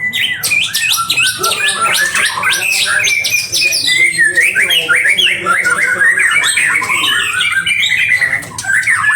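A songbird singing a fast, unbroken string of chirps, trills and whistled up-and-down sweeps.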